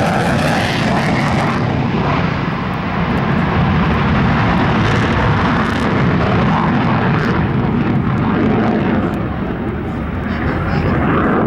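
F-35A Lightning II's Pratt & Whitney F135 jet engine, a loud steady rumble of a fighter flying past, its high hiss dropping away about a second and a half in.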